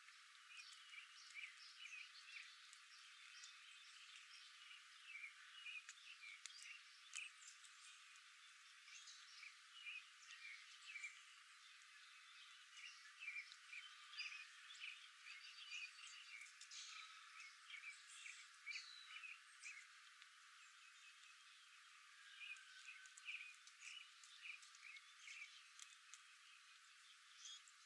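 Faint outdoor nature ambience: many short chirping calls from frogs or birds overlapping, thickest in the middle, over a light hiss.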